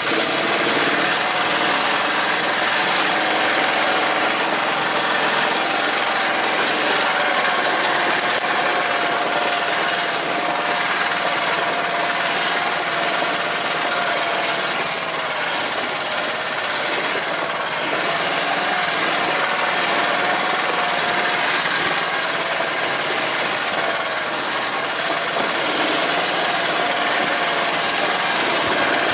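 Engine of a homemade karakat swamp buggy running continuously at a fairly steady speed, with a whine that holds nearly the same pitch and wavers slightly now and then.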